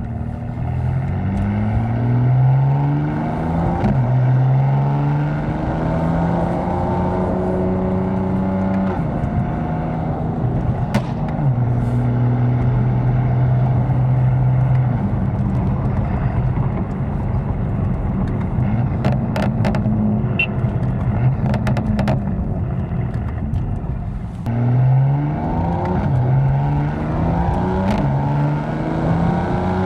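BMW M4's twin-turbo inline-six with an FI exhaust and catless downpipes, pulling hard through several gears: the revs climb and drop back at each upshift. It settles into a steady cruise in the middle, with a few short clicks, then accelerates through the gears again near the end.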